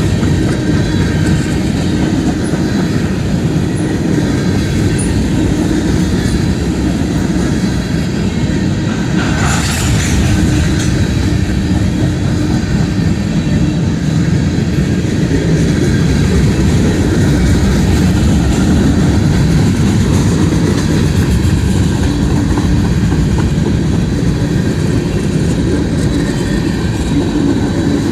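A train rolling past: a steady rumble of wheels on rail with clickety-clack. A brief, sharper noise rises above it about ten seconds in.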